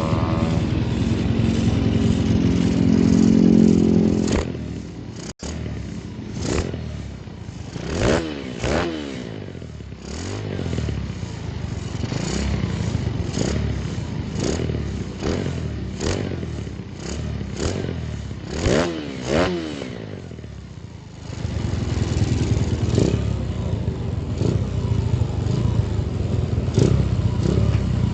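Bored-up 250cc Honda Tiger single-cylinder four-stroke motorcycle engine on a carburettor: held at high revs for about four seconds, then a lumpy idle broken by quick throttle blips that rise and fall, several of them in pairs, before settling into steadier, louder running for the last several seconds.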